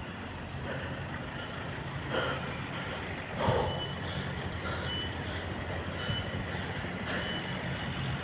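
Level crossing warning alarm beeping, a short high beep about every second, over a steady low hum.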